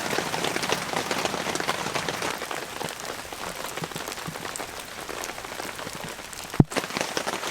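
Heavy, continuous rain falling on the tent and awning fabric, with one sharp click near the end.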